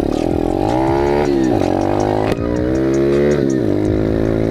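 Pit bike engine accelerating through the gears. Its pitch climbs, then drops at each of three upshifts.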